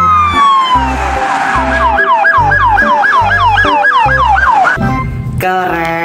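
Police siren: a long wail glides down in pitch during the first second, then switches to a fast yelp of about three falling sweeps a second, which stops about five seconds in. A steady electronic beat of low thuds runs underneath.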